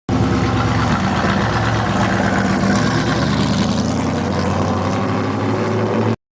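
Stock car V8 engine running at a steady, unchanging pitch. The sound starts and stops abruptly.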